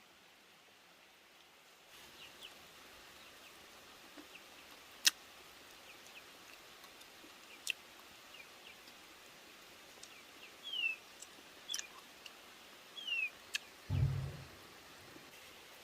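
A few short, falling bird chirps over a quiet background, with scattered sharp clicks and a low thump near the end.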